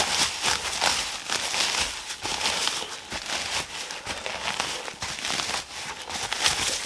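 Footsteps crunching through dry leaf litter and twigs: an irregular run of small crackles.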